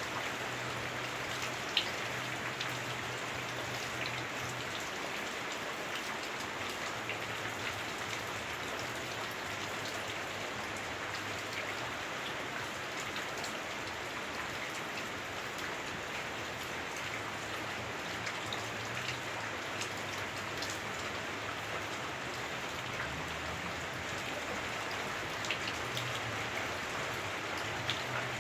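Heavy rain on a house roof heard from indoors: a steady hiss with single drops ticking through it, and one sharp tick about two seconds in. A faint low drone comes and goes underneath.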